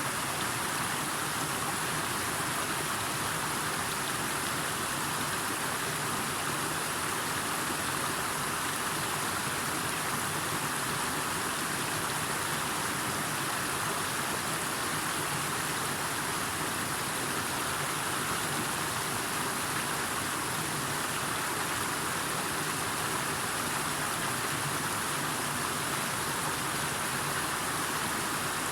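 Steady, unbroken rush of water with no separate drops or splashes standing out, and a thin, steady high hiss above it.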